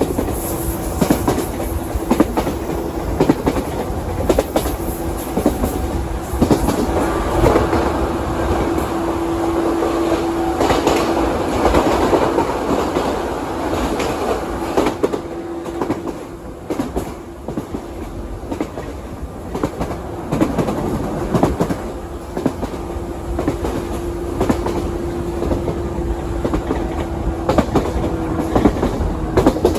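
JR 117 series electric train running, heard from inside the car: wheels clattering over the rail joints over a steady rumble, with a steady hum for much of the time.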